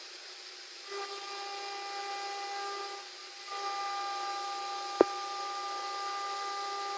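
CNC router spindle running with a steady high whine that comes in about a second in, dips briefly, then holds on. A single sharp click sounds about five seconds in.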